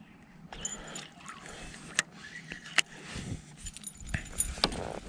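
Handling noise: rustling with a few sharp clicks and rattles, the loudest about two, three and four and a half seconds in.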